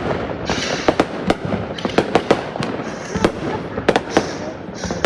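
Fireworks going off: about ten loud, irregular bangs and pops, with crackling hiss between them.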